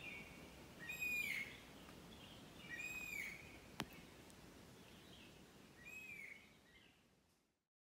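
Birds calling in a forest: a repeated arched call comes every one to two seconds over a faint steady hiss of forest ambience, with a single sharp click near the middle. The whole sound fades out near the end.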